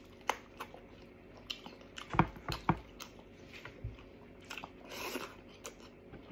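A person eating with his hands close to the microphone: chewing with wet mouth smacks and scattered clicks, two louder ones a little after two seconds in.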